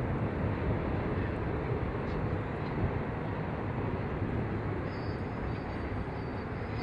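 A train rolling past, a steady rumble and clatter of wheels on rail that eases slightly, with a faint high ringing coming in near the end.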